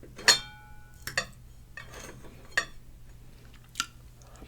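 Eating utensils clinking against dishes: about five light knocks and clinks, the first and loudest ringing briefly.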